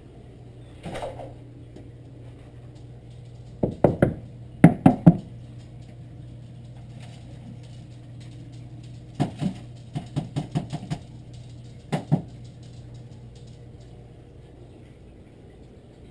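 Sharp knocks and taps in quick clusters of two to six, with a steady low hum under them.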